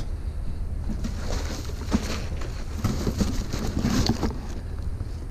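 Rustling and light knocking of items being handled and moved, with a steady low rumble underneath.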